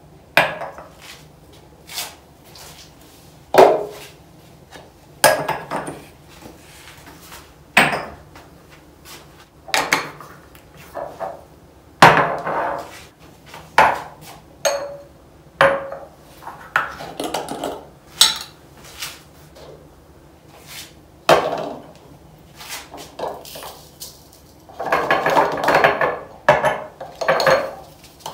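Spice jars and their lids handled and set down on a kitchen surface: a series of sharp knocks and clinks about every second or two, with a denser run of clattering near the end.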